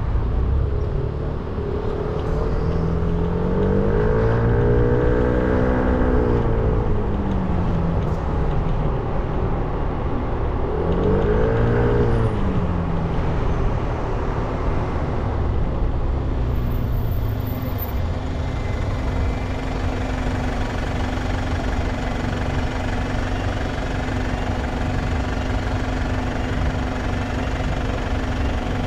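300 cc motorcycle engine revving up and easing back twice, about four seconds in and again about eleven seconds in, over steady road and wind noise. From about twenty seconds on the engine holds a steady note.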